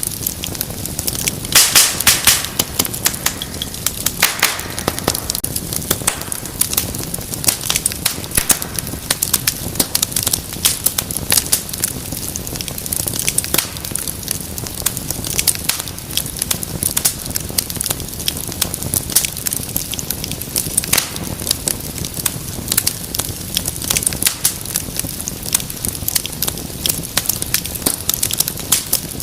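Wood fire crackling in a fireplace: a steady hiss of burning with dense, irregular pops and snaps, a bunch of louder pops about two seconds in.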